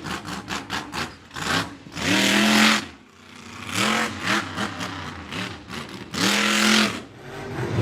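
Monster truck engine revving hard in repeated bursts, each rising in pitch, about every two seconds.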